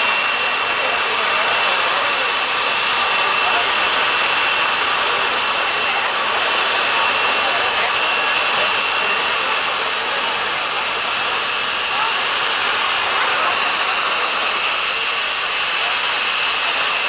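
Aircraft jet turbine engine running steadily: a loud, even rushing noise with two steady high-pitched whining tones on top.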